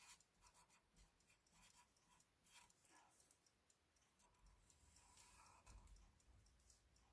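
Faint scratching of a felt-tip marker drawing lines on paper, in short strokes with small ticks.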